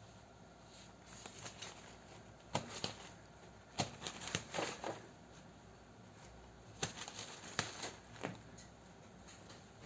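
Intermittent light rustling and sharp taps in a few short bursts, with quiet room sound between them.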